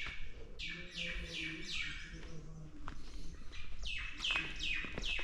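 Bird chirping: a rapid run of short calls, each dropping in pitch, about three a second, with a short break in the middle.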